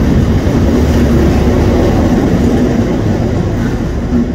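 Heritage passenger train passing close by: the carriages rumble steadily past, with a diesel locomotive's engine drone as the red locomotive at the rear comes alongside near the end.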